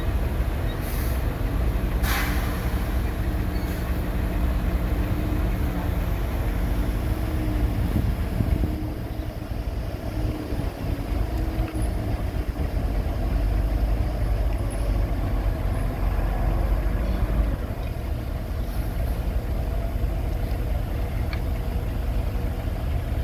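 Heavy diesel engine of earthmoving machinery running steadily with a deep rumble, its pitch wavering up and down in the middle. A brief sharp noise about two seconds in.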